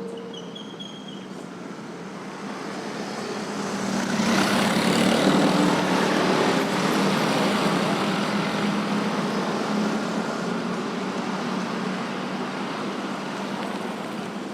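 Busy road traffic of motorcycles, cars and trucks at a city intersection. The traffic noise swells about four seconds in as vehicles pass close, then slowly eases off.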